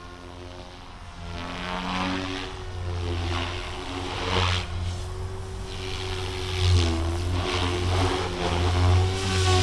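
GooSky RS4 400-size direct-drive brushless electric RC helicopter in flight: a steady motor and rotor hum with blade whoosh that swells and fades several times as it maneuvers.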